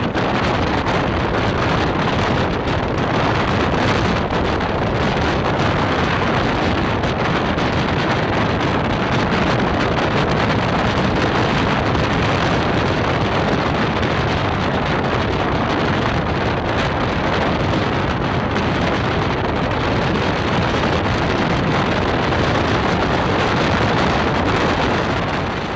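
Steady rushing wind and running noise aboard a moving Mumbai suburban electric local train, with wind buffeting the microphone.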